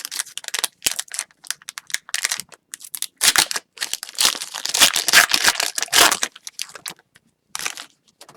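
Foil wrapper of an Upper Deck Series 1 hockey card pack being torn open and crinkled, with a busy run of rustles and crackles, loudest in the middle.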